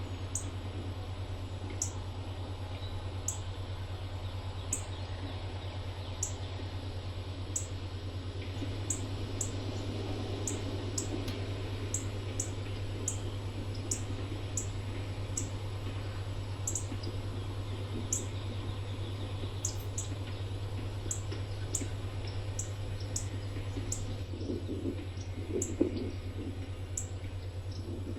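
A small bird chirping over and over, short high chirps that drop in pitch, about one a second, over a steady low hum and an even background hiss.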